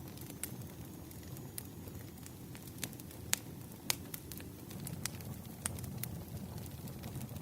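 Campfire burning: a steady low rumble of flames with scattered sharp crackles and pops, the two loudest a little over three and nearly four seconds in.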